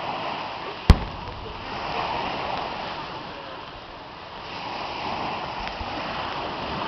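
Fireworks display: one sharp firework bang about a second in, then a rushing noise that swells twice.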